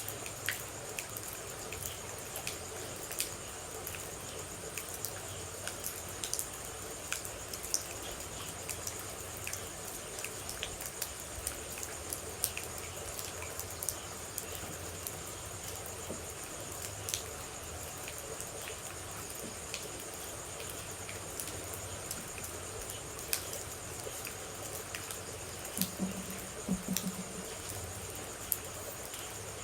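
Rain falling with scattered water droplets ticking, over a steady high-pitched hiss; two short low calls sound near the end.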